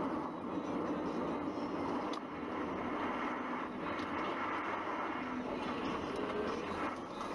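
Steady driving noise of a car on the road, a constant hum of engine and tyres.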